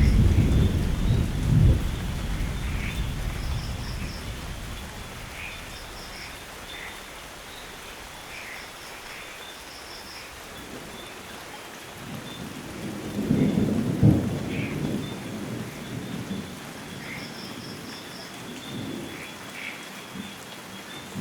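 Thunderstorm: steady rain with a roll of thunder fading away at the start, then a second rumble of thunder building about two-thirds of the way through, with a sharp crack at its peak.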